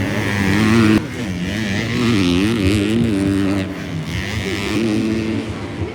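250cc four-stroke motocross bike engines revving hard, the pitch rising and falling as riders work the throttle through the track, with a sudden drop in level about a second in.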